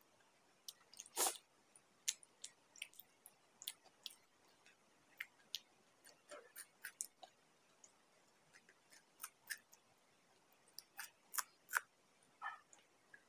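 Close-up chewing and crunching while eating raw green chillies with samosa: an irregular string of short, wet crunches and mouth clicks, the loudest about a second in.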